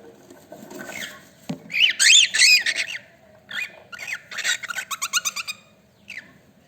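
Cockatiel calling: quick warbling chirps that swing up and down in pitch, loudest about two seconds in, followed by a faster run of short chirps.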